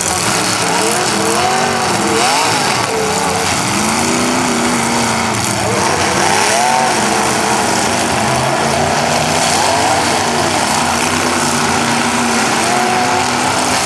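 Several demolition derby cars' engines revving at once, their pitches rising and falling over one another, loud and continuous.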